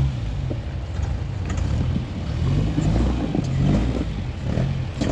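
Rock crawler's engine revving up and down in repeated short blips as it works over rocks, with a few faint knocks.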